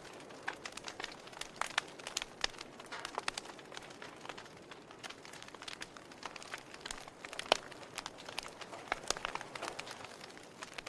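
Wood fire crackling in a fireplace: irregular sharp pops and snaps over a faint hiss, with one louder pop about halfway through.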